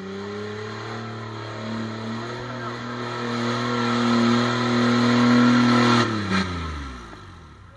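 Engine of a home-built off-road buggy running at steady high revs under load as it drives through deep mud. It grows louder as it comes close. About six seconds in, the revs drop and the engine note falls away.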